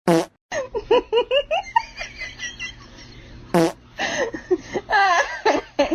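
A person laughing in quick, repeated bursts. There are two short, loud, noisy blasts, one at the very start and one about three and a half seconds in.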